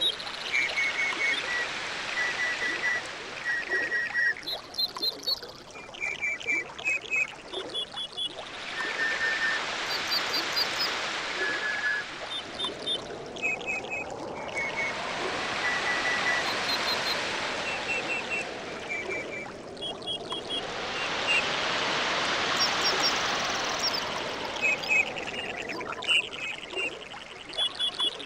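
Tropical ambience: water washing in slow swells that rise and fall, under birds chirping short, quick groups of three to five notes over and over.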